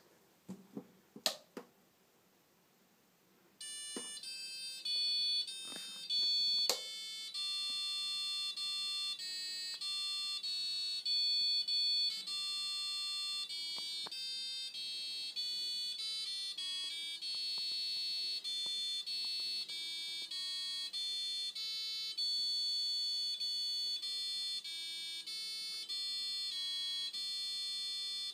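A washing machine's electronic beeper playing a national anthem as a tune of plain beep notes, each held about half a second to a second. A few sharp clicks come before the tune starts, a few seconds in.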